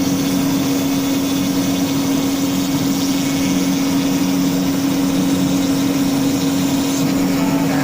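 CNC router spindle running steadily as it cuts wood, a constant machine hum with one strong steady tone.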